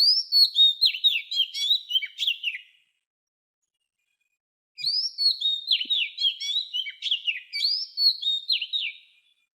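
A songbird singing: a phrase of quick, high chirping notes that slur downward, then after about two seconds of silence the same song twice more in a row.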